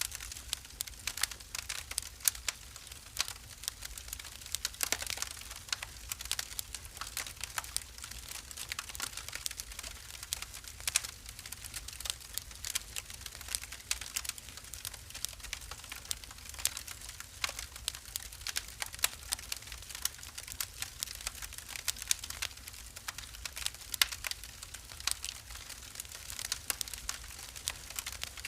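Wood fire burning in a fireplace, crackling and popping with many irregular sharp snaps over a low steady rumble.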